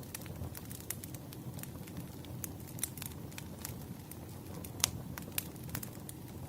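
Campfire burning: a steady low rumble of flames with scattered sharp crackles and pops, the loudest about five seconds in.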